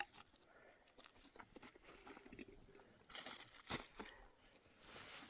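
Faint crunching and crackling of dry brush and twigs, with a louder crunch about three seconds in and a sharp snap just before four seconds.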